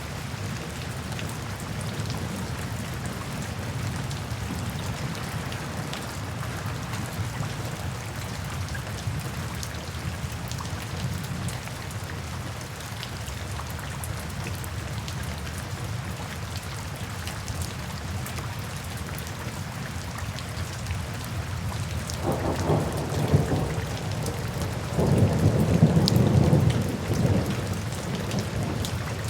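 Steady rain falling, with a low rumble of thunder rolling in about three quarters of the way through and swelling again near the end.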